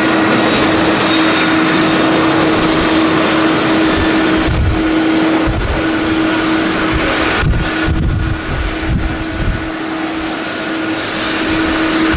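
Jet airliner engines running loud, with a steady hum under the roar, as gusts of strong wind buffet the microphone.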